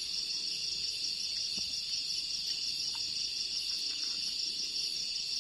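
Steady high-pitched chorus of forest insects, an unbroken drone that holds level throughout.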